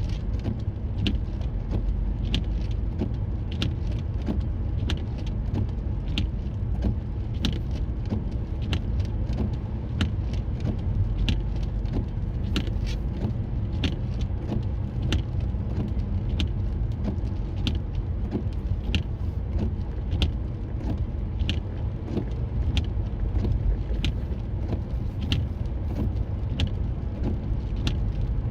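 Steady low rumble of a car running, with a sharp, regular ticking about one and a half times a second.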